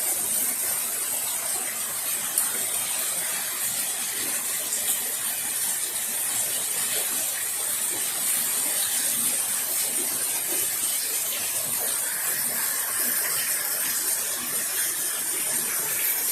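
Steady rain falling: a dense hiss made of lots of small drops rather than big ones, with a few faint drop ticks.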